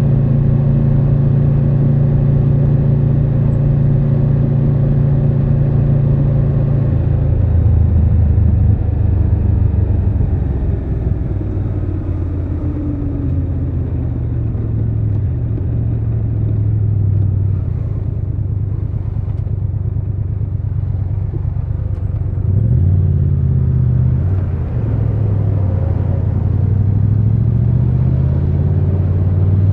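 Triumph Tiger 1200 Rally Pro's three-cylinder engine running under way. It holds a steady pitch, drops lower about seven seconds in, then rises and falls with changes of throttle a few times and climbs again near the end.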